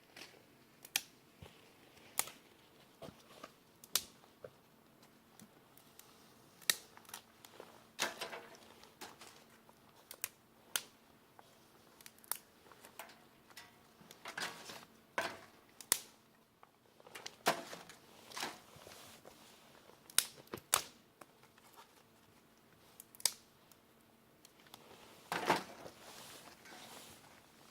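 Campfire wood crackling and popping: irregular sharp snaps, one or two a second, some louder than others, over a faint steady hum.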